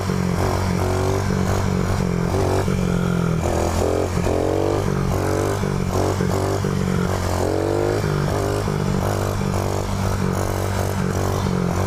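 Motorcycle engine running as the bike is ridden, its revs rising and dropping again and again.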